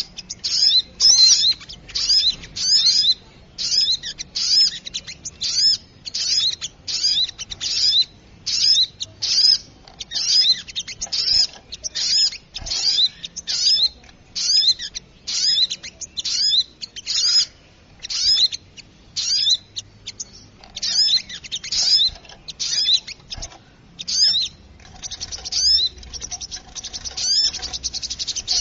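Bird-lure recording of small birds, the sogok ontong, calling agitatedly. Quick, high chirps follow one another in rapid runs with only short gaps between them.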